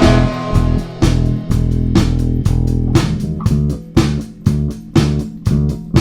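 Instrumental break in a rock song: bass guitar and plucked guitar over a steady drum beat, with no singing.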